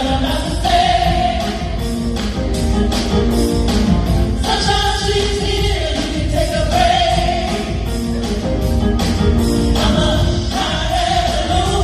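Gospel singing with instrumental backing.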